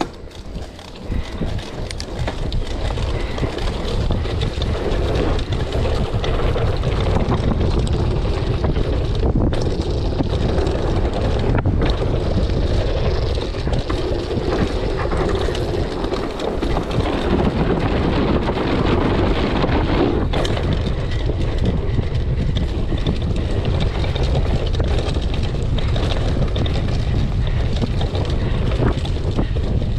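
Wind buffeting the microphone, with the tyres and bike rattling over the ground, as a mountain bike rides fast down a muddy dirt trail; it builds over the first few seconds as the bike picks up speed, then stays steady.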